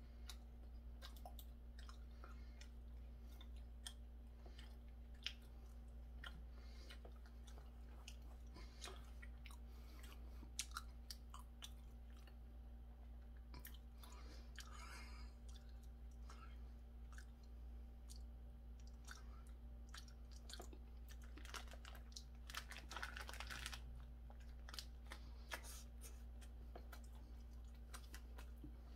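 Faint chewing of a hamburger, with scattered small clicks and crunches, over a steady low hum.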